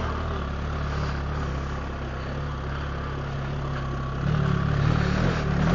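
BMW R 1300 GS Adventure's boxer twin engine running at low revs as the motorcycle pulls along a sandy track, a steady low drone that grows louder about four seconds in as the throttle opens.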